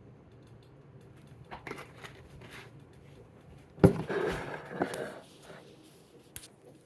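Crinkling and rustling handling sounds, with a sharp knock about four seconds in followed by a second of denser rustling, and a small click near the end.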